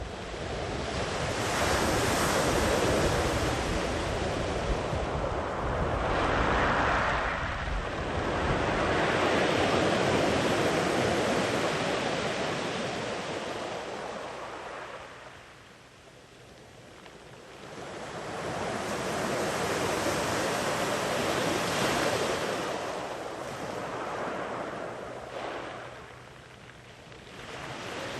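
Sea waves breaking and washing up a sandy beach in long, slow surges: one long swell of surf lasting over ten seconds, a lull about halfway, then a second wave rolling in, with some wind on the microphone.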